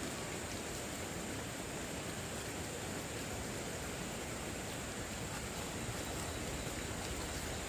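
Steady rushing of flowing stream water, even and unchanging, with a thin high hiss held above it.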